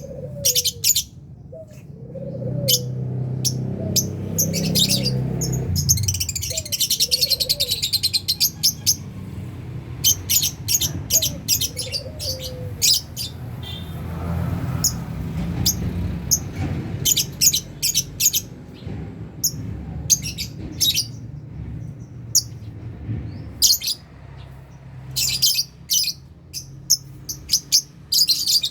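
A colony of lovebirds chirping: many short, sharp high-pitched chirps in quick clusters, with a stretch of rapid twittering about six seconds in.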